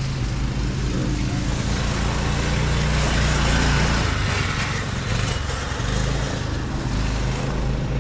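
Off-road buggy engines running close by, with a broad rush of engine and driving noise that swells about three to four seconds in.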